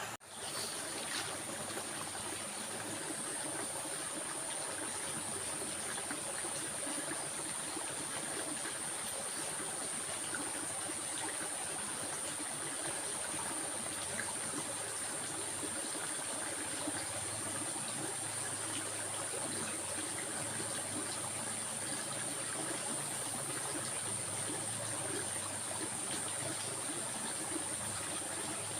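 A stream of water flowing and trickling steadily, with a thin, steady high-pitched tone running above it. The sound drops out for an instant at the very start, then runs on evenly.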